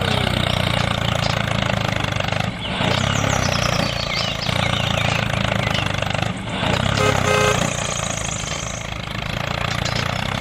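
Small mini-tractor engine running steadily, with a short tonal beep about seven seconds in.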